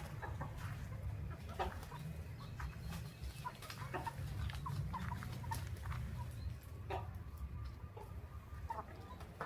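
Scattered short clucking calls from chickens over a low, steady rumble.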